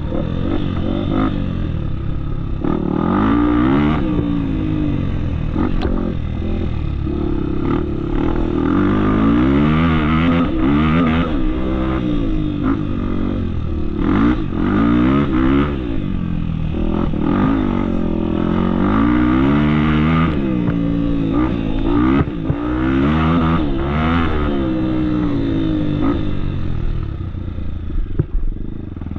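Off-road motorcycle engine under way, revving up and easing off again and again as the rider rolls the throttle and changes gear. Scattered short knocks sound throughout.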